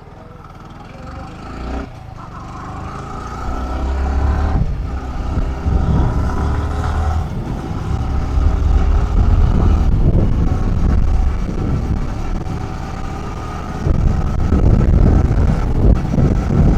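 Motorcycle engine accelerating, its pitch rising and then dropping at gear changes, with a heavy wind rumble on the microphone building as speed rises.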